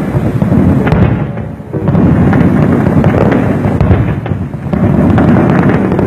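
Fireworks display heard from afar: a dense, continuous run of booms and crackling pops, with a short lull about a second and a half in.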